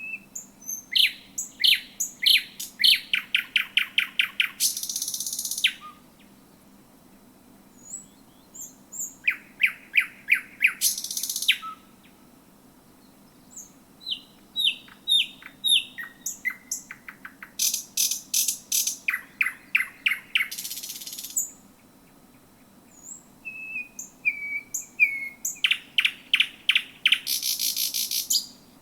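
Thrush nightingale singing close up, in four phrases with short pauses between them. Each phrase is a fast series of loud repeated notes, several a second, ending in a harsh, rattling buzz that lasts about a second.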